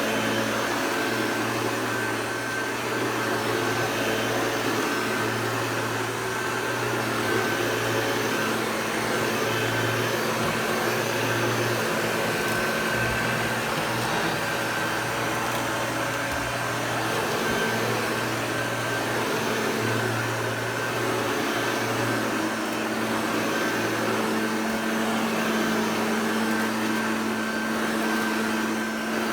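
Hoover Junior U1104 upright vacuum cleaner running steadily with a constant motor hum, its activator brush roll picking up Duo-p carpet powder.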